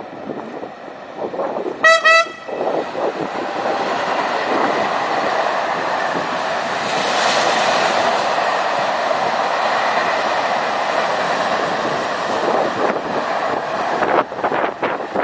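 An electric freight locomotive gives one short horn blast about two seconds in. Then a long train of open high-sided freight wagons rolls past with a steady noise of wheels on rail.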